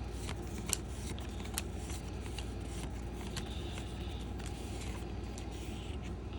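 Trading cards being handled and flipped through by hand: light rustling and scattered small clicks over a low steady hum.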